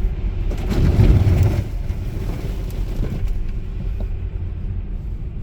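Low, steady road and tyre rumble of a Tesla driving on a snowy road, heard from inside the cabin, with a louder rushing swell about a second in.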